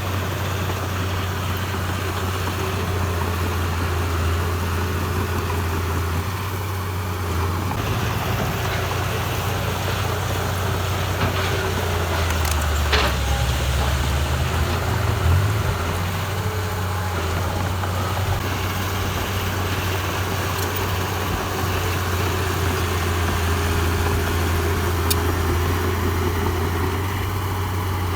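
Diesel engine of heavy earthmoving machinery running steadily with a low drone that wavers in pitch briefly about halfway through, with a single sharp knock near the middle.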